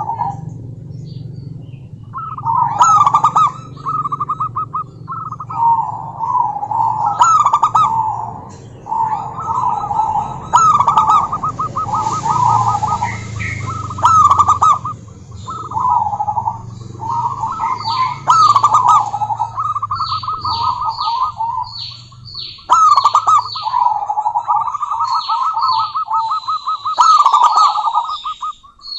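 Zebra dove (perkutut) cooing: a string of rolling, trilled coo phrases, one after another with short gaps, a female calling out to rivals. Another bird's short, high, falling chirps come in between the phrases in the second half.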